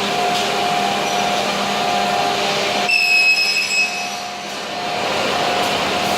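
Weeke BMG 111 CNC wood machining centre running with a steady machine noise. About three seconds in, a high whine rises over it for about a second, then the steady noise returns.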